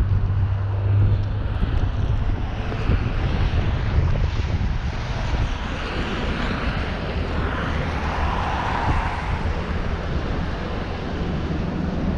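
Street traffic noise: a low engine rumble and the hiss of a vehicle that swells and fades as it passes, loudest a little past the middle.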